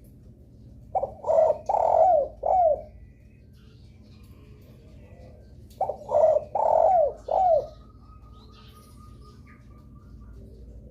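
Spotted dove cooing: two phrases about five seconds apart, each of four notes, the last one falling in pitch. Faint chirps from other birds sound in the background.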